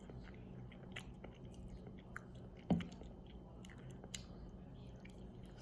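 Faint chewing and small mouth and eating clicks of a person eating a microwave meal, with one brief voiced sound about two and a half seconds in.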